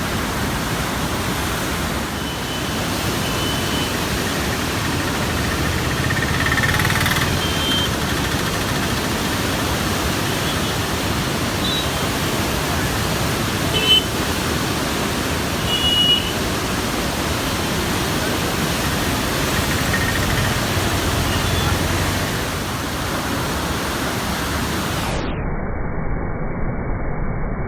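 Floodwater rushing through the open gates of a river barrage: a steady roar of water, with a few faint brief high tones and two short louder sounds near the middle.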